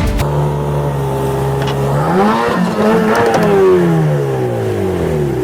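A motor engine's hum, steady at first, then rising in pitch about two seconds in and wavering before falling slowly away.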